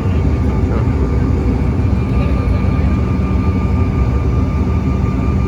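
Steady jet engine drone heard inside an airliner cabin: a loud, even low rumble with a constant high engine whine over it.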